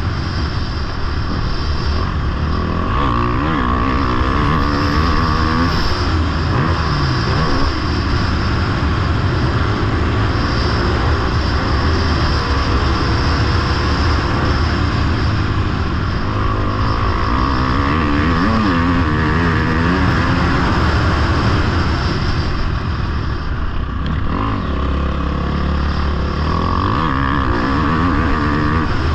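Motocross bike engine revving up and down as the rider opens and closes the throttle, easing off for a few seconds about three-quarters of the way through, over a heavy low rumble.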